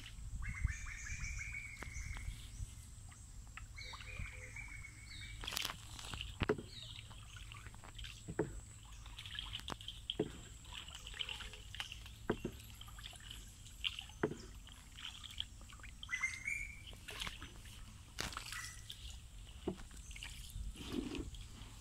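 Several birds chirping and calling, with the short knock and splash of a hand paddle dipping into the water roughly every two seconds.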